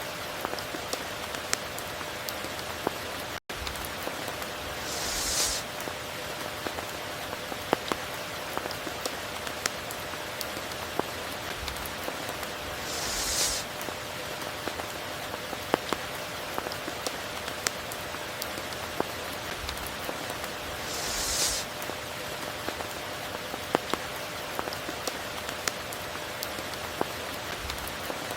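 Steady rain, with scattered sharp drops ticking and a brief swell of hiss about every eight seconds.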